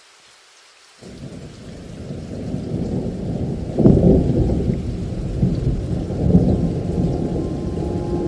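Rain falling, then about a second in a low rumble of thunder starts suddenly, grows to its loudest about four seconds in and keeps rolling.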